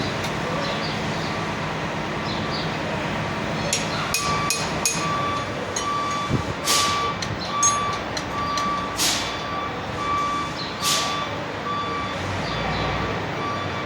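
Vehicle reversing alarm beeping at an even pace, about two beeps a second, starting a few seconds in. Metal clanks and three short, loud hisses of air sound over it.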